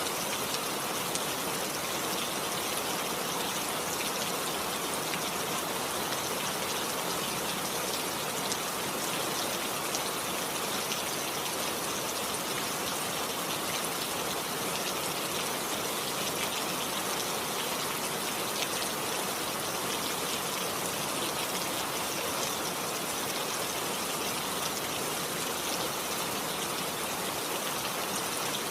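Steady rain falling: an even hiss of rain with scattered drop ticks, unchanging throughout.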